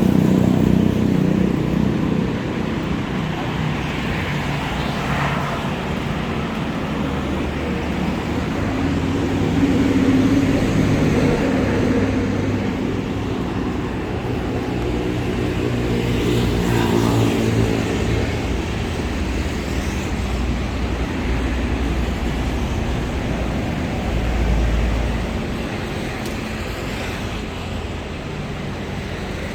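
Motorbike engine running while riding through city traffic, its pitch rising and falling with speed, over steady road noise.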